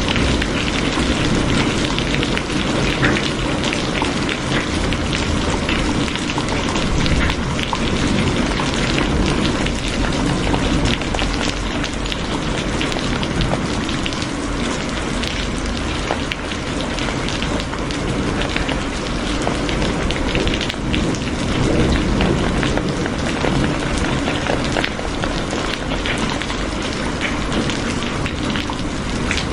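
Rain falling steadily, with many separate drops tapping on a surface.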